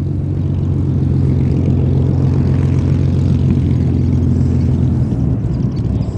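Supermarine Spitfire's Rolls-Royce Merlin V12 engine and propeller running loud at a steady pitch.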